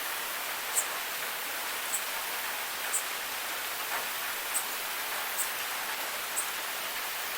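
Waterfall: a steady rush of falling water, with short sharp high ticks about once a second.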